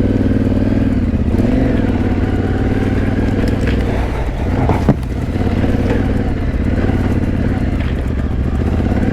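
Yamaha Ténéré 700's parallel-twin engine running steadily on a slow trail ride, its pitch rising a little now and then as the throttle is worked. A single sharp knock comes a little before the halfway point.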